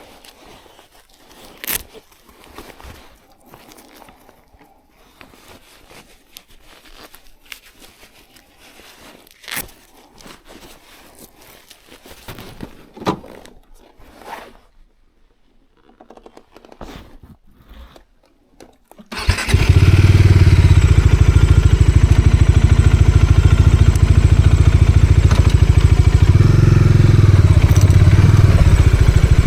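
Scattered clicks and knocks over a quiet background, then about two-thirds of the way in a Bajaj Dominar 400 motorcycle's single-cylinder engine starts abruptly and runs steadily at idle, its note changing briefly near the end.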